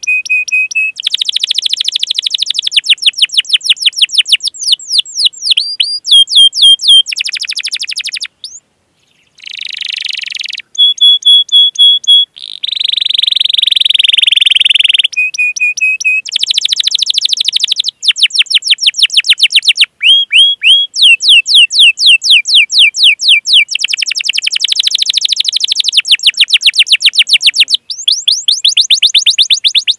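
Domestic canary singing a long, fast song: runs of rapidly repeated sweeping chirps and trills alternating with steady held rolls, with a short break about nine seconds in.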